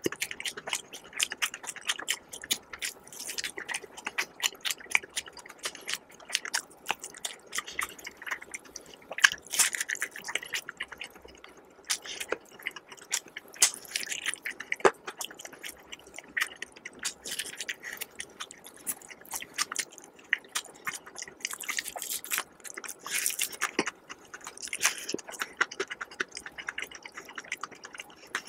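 Close-miked chewing and biting of crispy fried chicken: the batter crunches and crackles in quick irregular clicks, with louder bites every few seconds.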